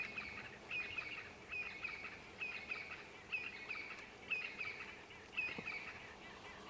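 A bird calling, the same short call repeated about once a second and stopping shortly before the end.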